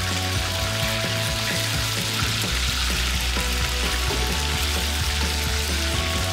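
Meatballs shallow-frying in hot oil in a pan: a steady sizzle, with background music under it.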